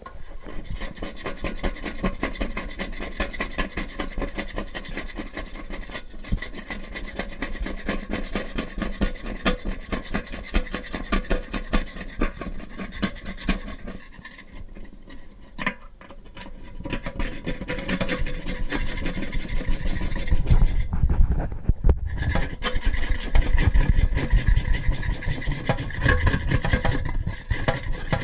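Metal spoon scraping rust and limescale off the inside of a tea kettle in fast, repeated strokes, with a short break about halfway and louder scraping in the last third.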